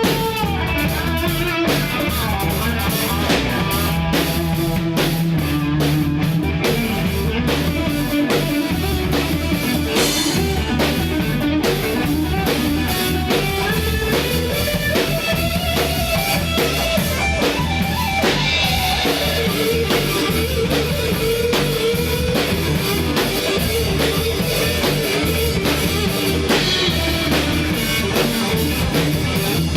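Rock song from a three-piece jam band: guitar over a steady drum-kit beat, with a melody line that slides up and down in pitch.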